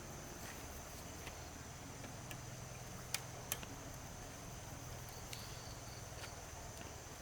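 Faint outdoor ambience with a steady high insect drone and two sharp clicks a little after three seconds in.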